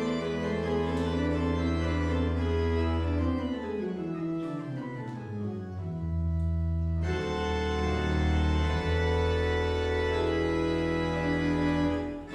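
Church organ playing music: full sustained chords, a descending run of notes in the middle, then further held chords.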